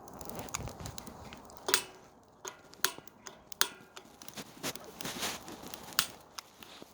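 Irregular sharp snaps and crackles of dry twigs and sticks while a campfire is being lit, a few louder cracks standing out among the small ones.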